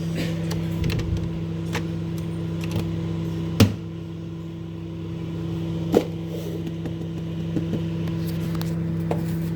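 Panasonic microwave oven running, a steady hum. Two sharp clicks come a few seconds in and again about two seconds later.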